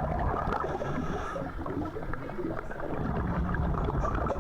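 Steady rushing water noise with a low rumble, as from a boat moving at sea.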